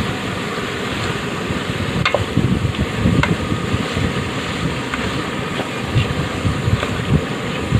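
Gusty low rumble of wind buffeting the microphone, with a few faint clicks.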